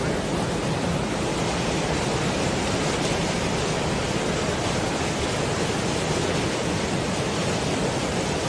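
Steady, even rushing noise of water, with no pitch and no rhythm.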